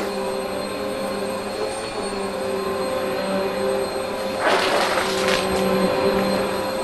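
Vacuum cleaner running steadily with a constant motor hum, with a brief louder whoosh about four and a half seconds in.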